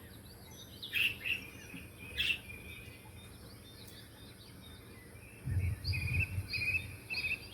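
Small pet birds chirping: scattered short chirps, two sharper ones in the first few seconds, then a quick run of repeated chirps near the end. A low rumbling noise, like handling, sits under the later chirps.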